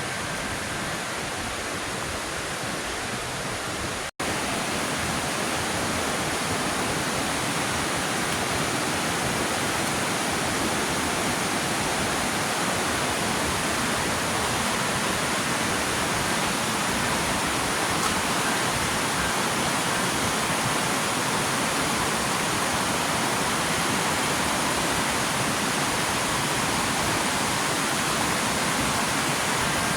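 Waterfall rushing: a steady, even noise of falling water, with a split-second dropout about four seconds in, after which it is slightly louder.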